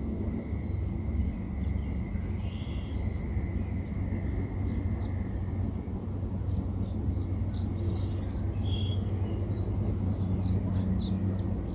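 Wind buffeting the microphone with a steady low rumble, while birds chirp: short high calls, coming more often in the second half.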